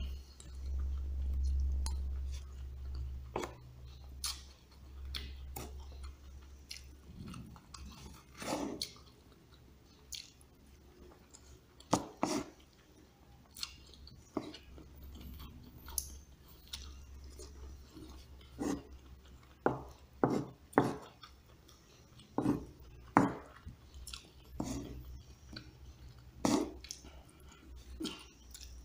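Close-up chewing and eating sounds of a person eating rice in soto kuning broth from a spoon and fork, with scattered sharp clicks of the cutlery. A low rumble is heard during the first few seconds.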